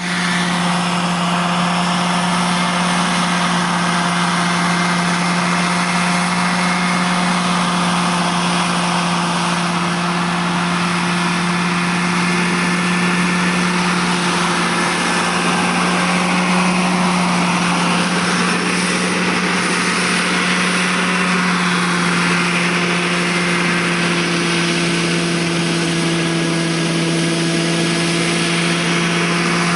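Scale Huey model helicopter running at a steady speed after a rebuild: an unchanging hum with a steady whine and hiss, with no rise or fall in pitch.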